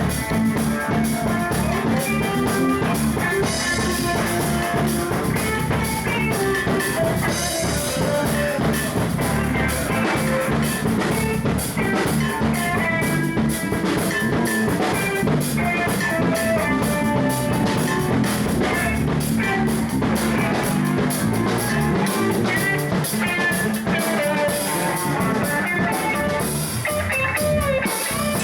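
Live band jamming: electric guitar and bass over a drum kit with a steady rock beat.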